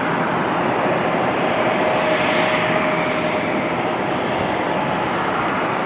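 Jet airliner engines: a loud, steady rush of noise with a faint steady whine, swelling slightly two to three seconds in.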